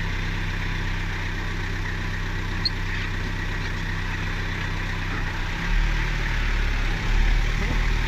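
Off-road 4x4 vehicle's engine running steadily at low revs, growing louder about two-thirds of the way in.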